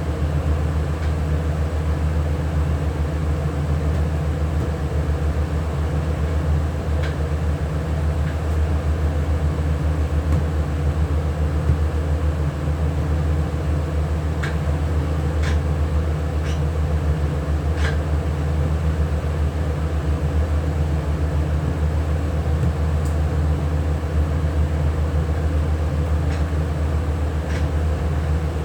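A machine motor running steadily with a constant low hum, with a few light clicks or knocks here and there.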